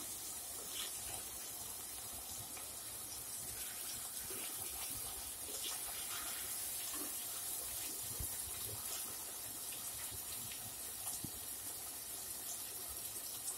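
Chopped tomatoes and onions sizzling steadily in a pot over a gas flame, with scattered light scrapes and taps of a wooden spatula as they are stirred.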